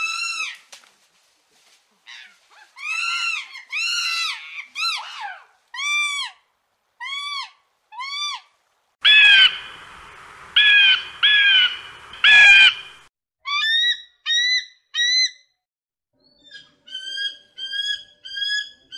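A series of short pitched animal calls, each rising and falling in pitch. They come about one a second, with four louder, rougher calls around the middle and quicker, higher-pitched calls in runs near the end.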